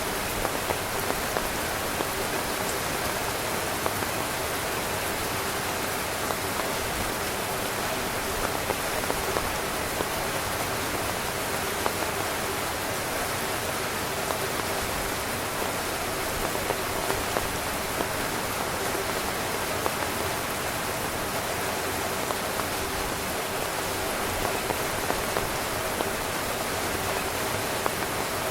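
Steady heavy rain pattering on a tent fly, a dense hiss of drops with frequent sharper individual hits.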